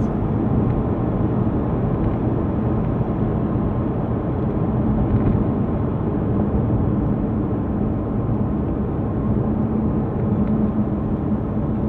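Steady low rumble with a hum inside a Porsche 911's cabin, as of the car running at idle; it stays even throughout.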